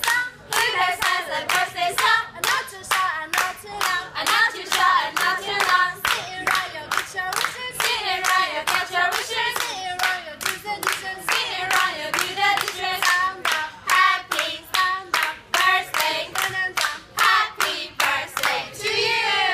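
A small group of women singing a song together in unison while clapping their hands to a steady beat.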